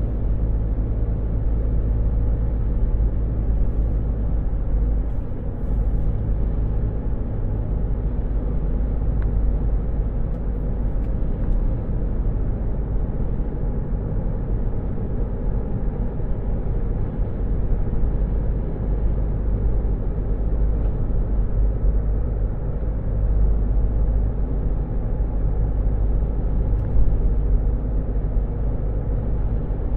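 Steady low rumble of a car's running engine heard from inside the cabin, with an even, unchanging hum.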